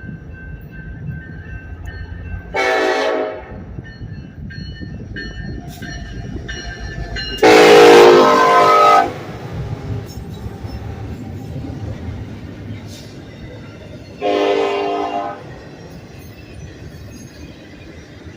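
Horn of the leading Union Pacific SD70AH locomotive sounding three blasts (short, then a longer and louder one, then a short one) over the steady rumble of a passing freight train.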